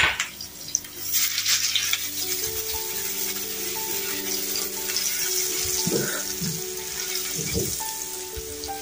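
Chopped aromatics sizzling in hot oil in a nonstick frying pan as a silicone spatula stirs them. The sizzle picks up about a second in and holds steady.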